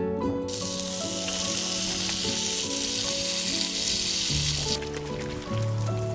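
Meat sizzling as it fries in a hot pan, starting about half a second in and cutting off just before 5 s, over soft plucked-string background music.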